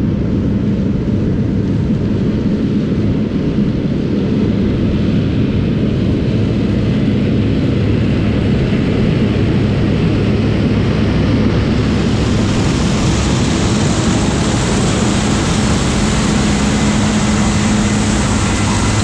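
Diesel engine of farm harvest machinery running steadily under load. Partway through, a rushing, hissing noise grows louder over the engine hum.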